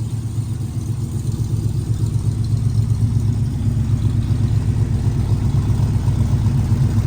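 1968 Mercury Cougar's V8 idling steadily with a deep, even exhaust pulse, getting gradually a little louder; the engine has not yet warmed up after a cold start.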